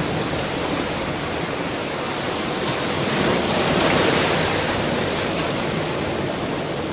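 Ocean surf: a steady wash of breaking waves that swells to a peak about halfway through and then eases off.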